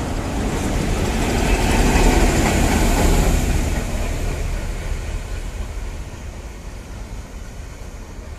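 A diesel-hauled train led by an MTR ER20 locomotive, with a G16 diesel locomotive in the consist, passing at speed: diesel engine and wheels on the rails rumbling. It grows loudest about two to three seconds in, then fades as the train moves away.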